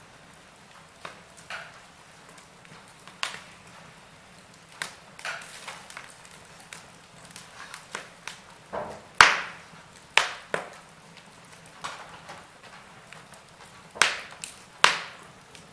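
Wood fire crackling, with irregular sharp pops and snaps over a low steady hiss; the loudest pops come about nine seconds in and again near the end.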